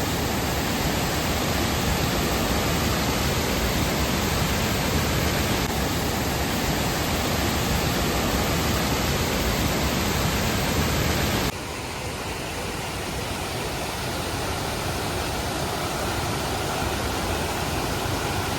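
Waterfall rushing: a steady roar of falling water. About two-thirds through it cuts to another stretch of the same kind of rushing, a little quieter and less deep.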